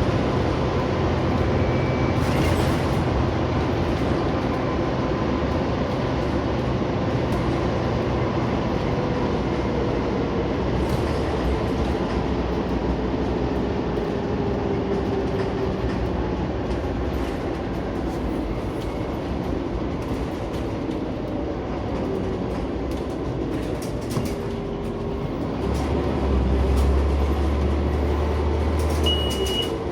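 Interior of a Scania OmniCity single-deck bus on the move: a steady diesel engine drone mixed with road and body noise, the engine note slowly shifting as it pulls. A deeper engine drone swells near the end, and a brief high beep sounds just before it stops.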